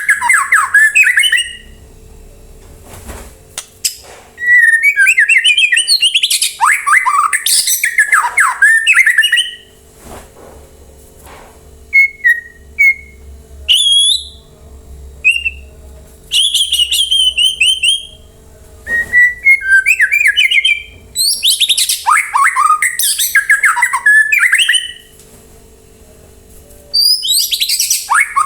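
White-rumped shama (murai batu) singing in about six loud bouts of rapid, varied whistles and chattering notes, with short pauses between bouts.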